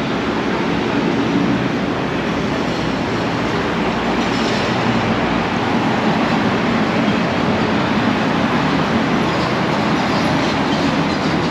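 A steady, loud rumbling noise of heavy vehicle traffic, holding an even level without a clear beat.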